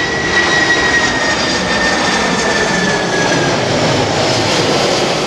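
Boeing 747's jet engines passing close on its landing approach, a loud steady rush with a high whine that slowly drops in pitch as it goes by.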